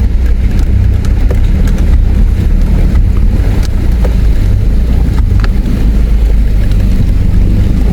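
Four-wheel drive heard from inside the cabin, its engine and tyres giving a steady low rumble as it drives the rough river track, with scattered light clicks and knocks.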